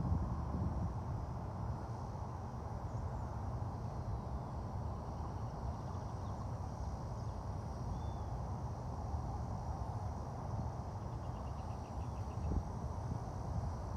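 Steady low outdoor rumble, with faint high chirping over it.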